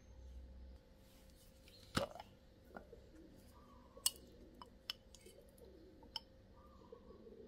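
A few light knocks and clicks in a quiet room, the loudest about two seconds in and a sharper tap about four seconds in.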